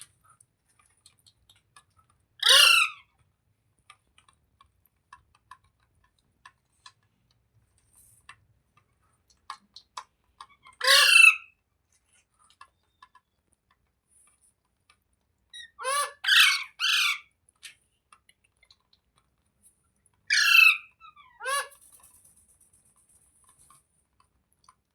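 Green parrot squawking in short, harsh calls that drop in pitch: one about two seconds in, another near the middle, a quick run of three, then two more near the end, with faint clicks between.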